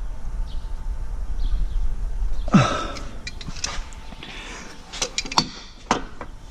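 Hand tools and exhaust hardware being worked under a car: scattered sharp clicks and knocks, most of them in the second half, over a low rumble in the first half.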